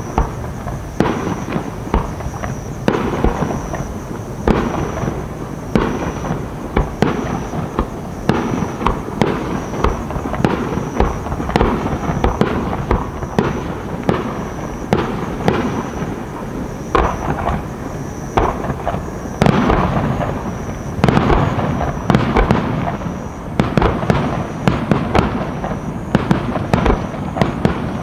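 Fireworks display: a dense, continuous run of sharp bangs and bursts going off in quick succession, with no let-up.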